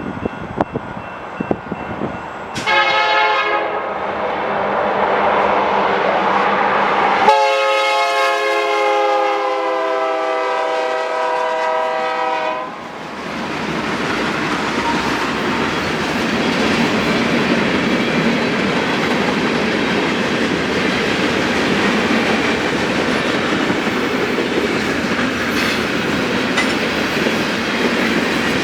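Union Pacific diesel locomotive's multi-chime air horn sounding, a short blast then a long blast of about five seconds. The train then passes with a steady rumble of wheels and cars and light clicking over the rail joints.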